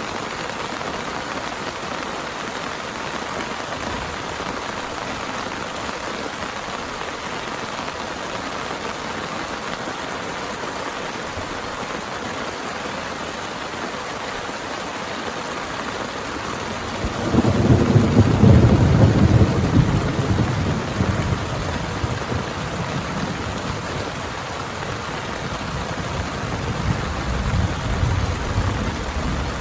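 Heavy rain falling steadily, with a loud low rumble of thunder breaking in a little over halfway through, rolling on and fading, then swelling again near the end.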